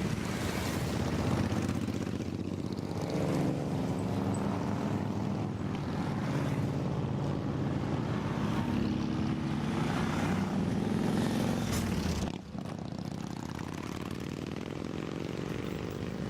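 Motorcycle engines running and passing, their pitch slowly gliding, over a steady drone of engine and road noise. The sound drops abruptly about twelve seconds in, then goes on more quietly.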